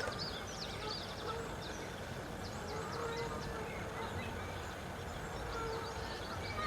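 Tropical rainforest ambience: a dense chorus of quick, high chirps from birds or insects, with lower drawn-out calls now and then over a steady hiss of the forest.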